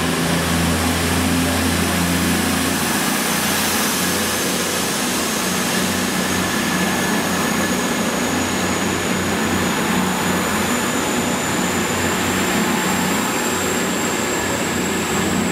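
CrossCountry Voyager diesel multiple unit moving past along the platform: its underfloor diesel engines run with a low hum that is strongest for the first few seconds, over steady wheel-and-rail noise. A faint high whine rises slowly in pitch throughout.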